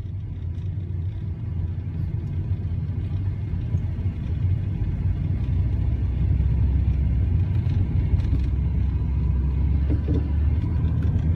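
Car on the move: a steady low rumble of engine and road noise, growing slightly louder over the first few seconds and then holding steady.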